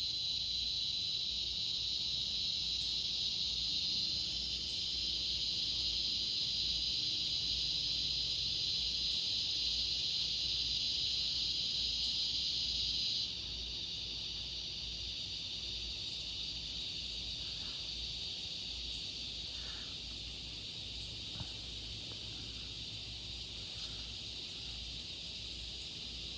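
A chorus of cicadas giving a steady, high buzzing drone. About halfway through it drops abruptly to a quieter level, and a fainter, higher buzz joins a few seconds later.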